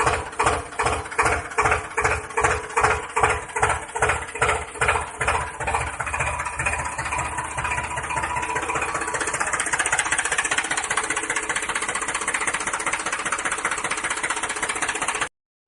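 Tractor engine chugging in slow, regular beats of about two a second, then settling into a steadier, faster run about six seconds in. It cuts off abruptly near the end.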